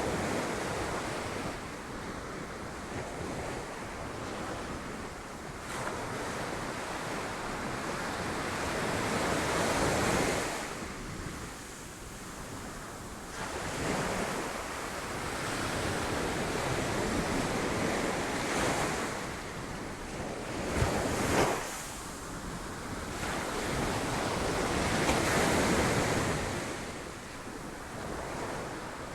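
Sea waves breaking against rocks, a continuous rush of surf that swells and falls back every few seconds, with one sharper crash about two-thirds of the way through.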